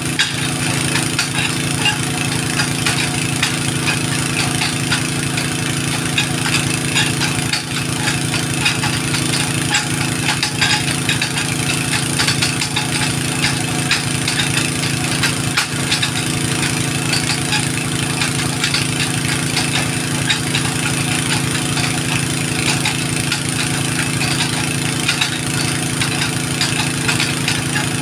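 An engine running steadily at an even speed, starting abruptly at a hard cut and holding level throughout.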